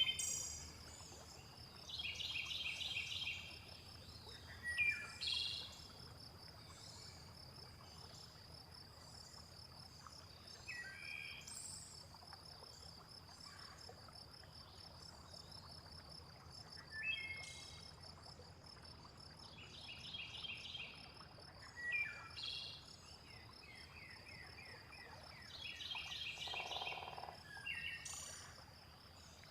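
Layered nature ambience: a steady, high, pulsing insect trill runs throughout, while birds call every few seconds with short falling chirps and rapid repeated-note phrases. Beneath them lies a faint low steady rush of water.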